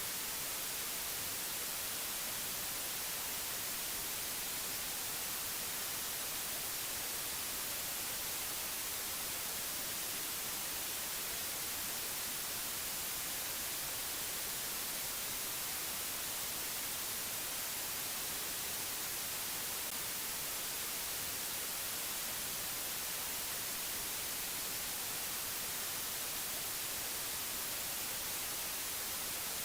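Steady, unchanging hiss like white noise or static, brightest in the treble, with no other sound.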